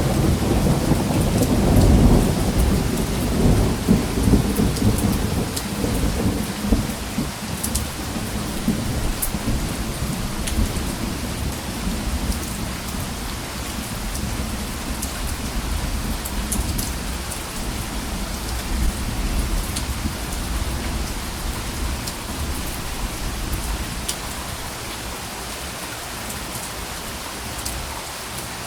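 Steady rain falling, with a low rumble of thunder that is loudest in the first few seconds and slowly fades away while the rain goes on.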